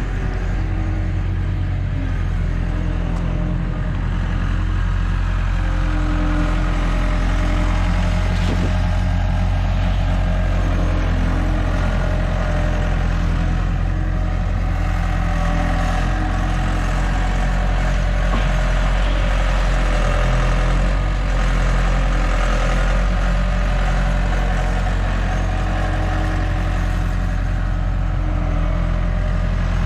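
A large vehicle engine running steadily, with a constant low hum.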